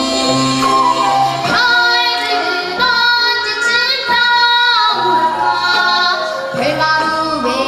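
A children's vocal ensemble singing a Korean gugak-style children's song, with held, gliding notes over instrumental accompaniment.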